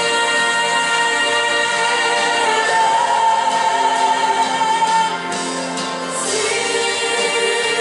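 A group of voices singing a gospel worship song in long held notes, easing off briefly about five seconds in.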